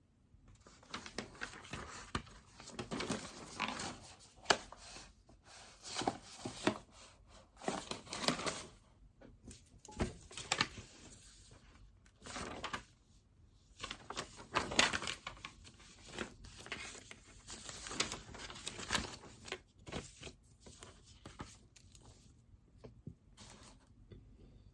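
Pen scratching across paper in quick bursts of strokes, with short pauses between runs and a few sharper taps.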